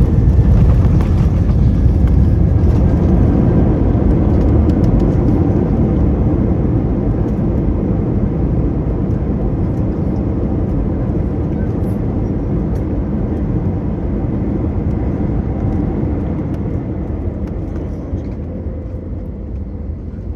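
Cabin noise of an Airbus A321neo with CFM LEAP-1A engines slowing down the runway after touchdown: a loud, deep roar that gradually dies away as the engines spool down and the aircraft decelerates.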